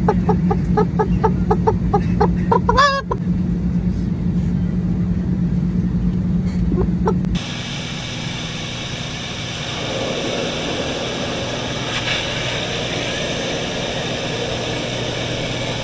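A steady hum with a rapid run of short pitched sounds, about four a second, ending in a rising squeal. About seven seconds in it cuts to a steady airliner cabin noise, an even engine rumble and hiss.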